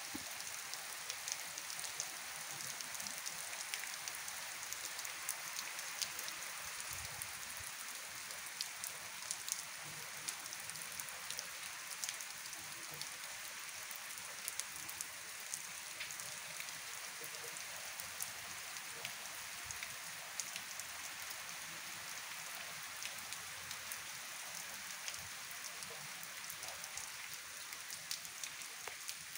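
Steady rain falling on wet dirt ground, puddles and concrete: an even hiss of rain with many small ticks of individual drops.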